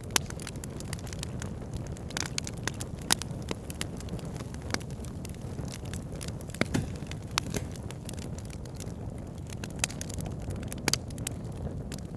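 Wood fire in a fireplace burning with a steady low rumble and irregular crackles, with a few sharper, louder pops scattered through.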